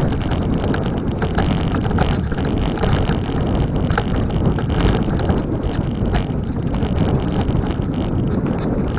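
Wind buffeting the microphone of a camera on a moving bicycle, over a steady rumble of tyres on the road, with frequent small clicks and rattles.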